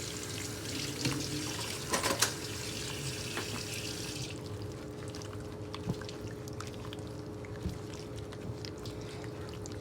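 Chicken pieces being mixed by hand in a thick batter, with soft wet squishing and small clicks. Water runs from a tap over it and stops suddenly about four seconds in.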